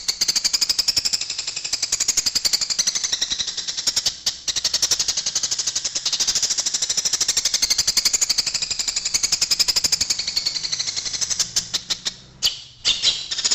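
Eurasian tree sparrows fighting: a loud, unbroken rapid chatter of sharp chirps, many per second, with brief breaks about four seconds in and again near the end.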